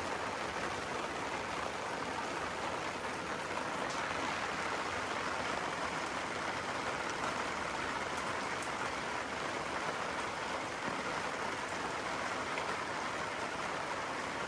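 Rain falling steadily during a thunderstorm, an even hiss with no thunderclap.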